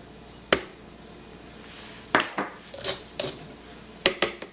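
Kitchen utensils and dishes clinking: about five sharp taps and clinks, some ringing briefly.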